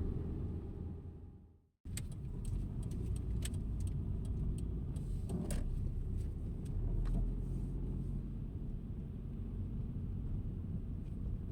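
Low, steady rumble of a car on the road, fading out a couple of seconds in and coming straight back after an edit. A run of small clicks and a jingle, like keys, comes over the next few seconds.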